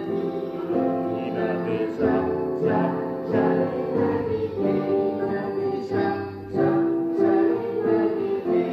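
A group of voices singing a song together in unison, held notes moving steadily from one to the next.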